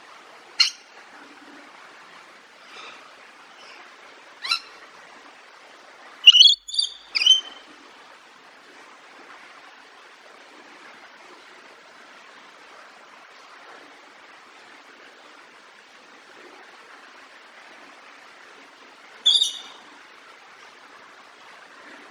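Short, sharp, high-pitched bird calls over a steady background hiss: single calls now and then, a loud cluster of three or four calls about six seconds in, and another call near the end.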